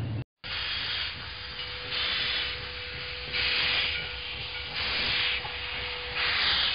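Steam locomotive working slowly: hissing steam exhaust beats come about every second and a half over a faint steady hum. They start after a brief gap.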